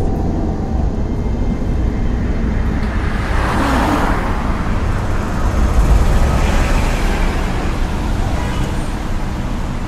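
Car driving sound effect: a steady low engine and road rumble, with a rush of noise that swells and fades about three to five seconds in, like a car passing.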